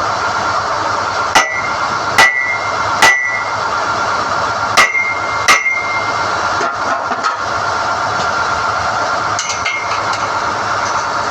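SDH-1600 core drilling rig running steadily during the pulling of NQ drill rods, with five sharp, ringing metal clangs in the first half and a few lighter ones near the end.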